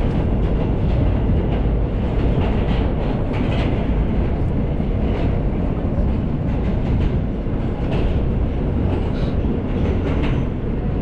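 F line subway train running between stations, heard from inside the car: a steady loud rumble of wheels on the track with scattered clicks.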